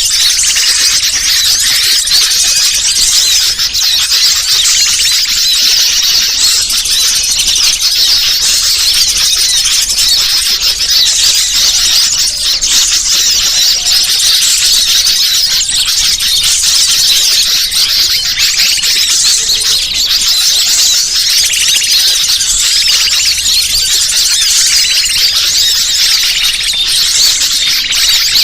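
Dense, loud chorus of many small birds chirping and twittering at once, high-pitched and without a break: a bird-trapping lure (pikat) call recording.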